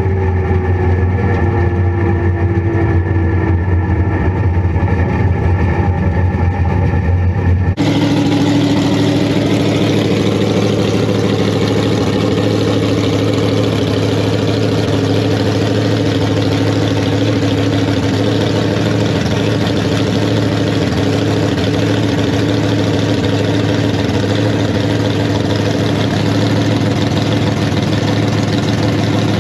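Drag racing car engines running at a steady idle, with an abrupt change about eight seconds in to another engine idling with a rougher, noisier sound.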